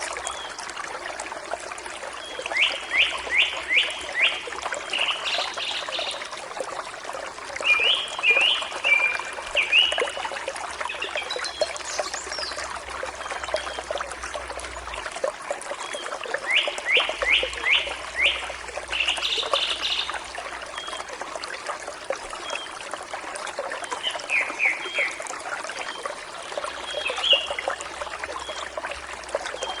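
Forest stream flowing steadily, with birds singing over it in short phrases. One bird gives a quick run of five or six falling notes, about three seconds in and again about seventeen seconds in.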